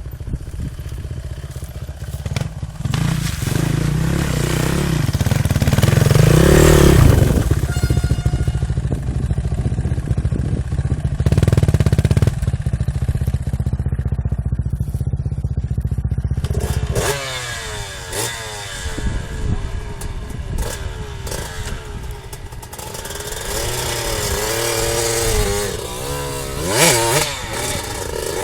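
Dirt bike engines running under way, with a dense low rumble for the first half; about halfway through the engine pitch starts rising and falling repeatedly as the bikes are revved up and down.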